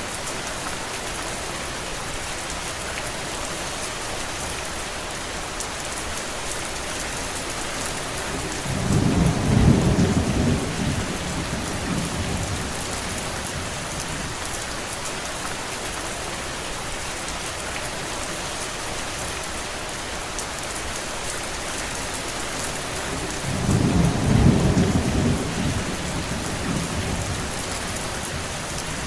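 Steady rain hissing on surfaces, with two low rumbles of a few seconds each, about a third of the way in and again near the end.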